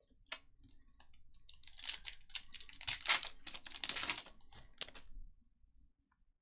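Foil wrapper of a trading-card pack being torn open and crinkled: a few sharp clicks, then a few seconds of crackling rustle that stops near the end.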